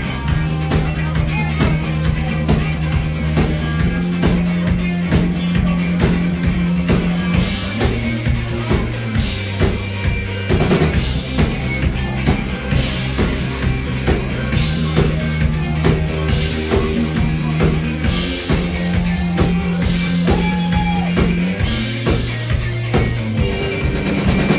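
Live pop-rock band playing an instrumental intro: a drum kit keeps a steady beat of bass drum and snare under a bass line of held notes.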